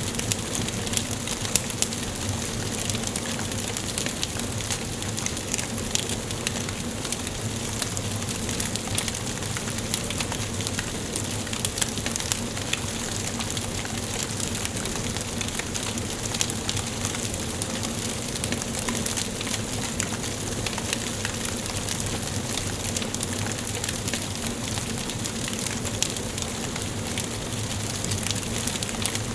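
Wood fire burning in a fireplace, crackling steadily with many small pops and a few louder snaps.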